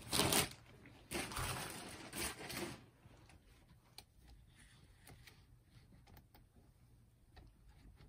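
Hands opening up and handling a stereo unit: rustling and scraping for about three seconds, then a few faint clicks.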